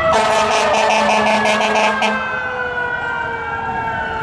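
Emergency vehicle siren wailing, its pitch sliding slowly downward, with a rapid pulsing for about the first two seconds.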